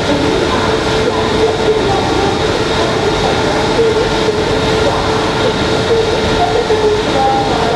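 WAP-7 electric locomotive standing and humming steadily: a constant mid-pitched tone with a fainter high one over an even rushing noise.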